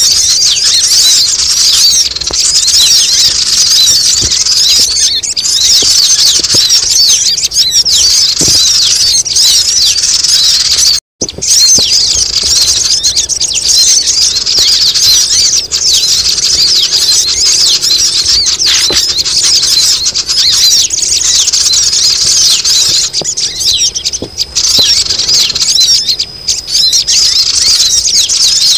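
Bird-lure track: a dense, continuous chorus of high-pitched squealing and chattering bird calls, played to draw sogon birds down. The sound drops out for an instant about eleven seconds in.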